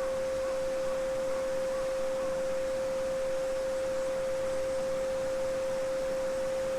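A steady pure 528 Hz Solfeggio sine tone, held without change, over the faint even rush of a babbling brook.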